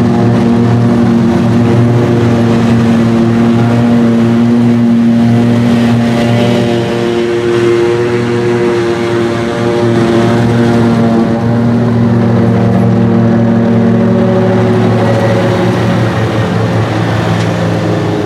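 Heavy diesel engine of silage-harvesting machinery running steadily under load, its pitch shifting slightly a couple of times.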